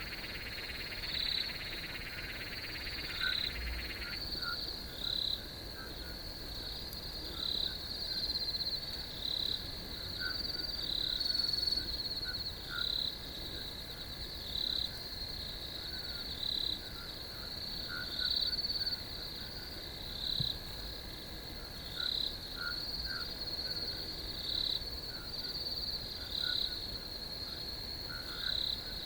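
Night chorus of crickets: a steady high trill with louder pulses about once a second. A lower, denser chorus stops abruptly about four seconds in, leaving scattered short, lower calls over the trill.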